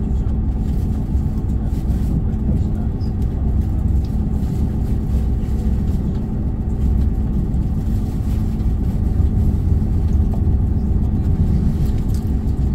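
Diesel multiple unit train running at speed, heard from inside the carriage: a steady engine drone over a low wheel-and-track rumble.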